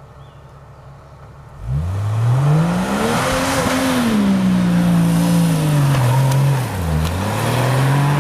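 Off-road 4x4's engine running low, then suddenly revving hard under load about two seconds in: the pitch climbs to a peak, eases off, dips briefly near the end and picks up again, with a loud hiss over it.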